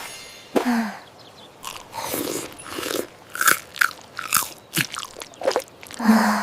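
Crunchy biting and chewing sound effects: a series of sharp, irregularly spaced crunches, like someone chomping into juicy fruit.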